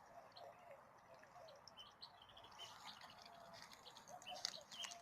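Faint chirping of small birds: many short, quick chirps, with a few soft clicks among them.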